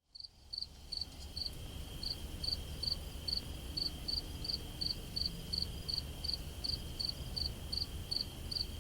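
A cricket chirping steadily, about two to three short chirps a second, over a faint steady high hum.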